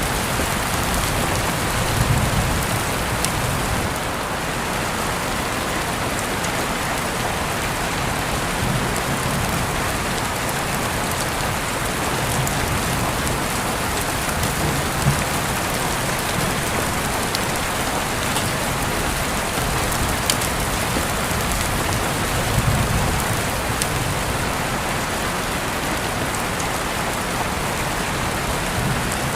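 Steady rainfall: an even hiss of rain on surfaces, with now and then a sharper single drop striking and a few brief low swells.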